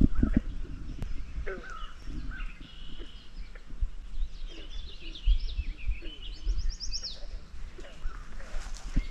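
Birds chirping and calling from the marsh: scattered short chirps and sliding notes, with a quick trill of repeated high notes about two-thirds of the way through, over a low rumble.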